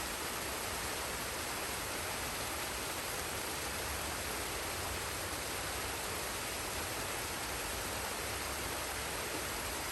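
Forest waterfall and stream: water rushing in a steady, even hiss that does not change.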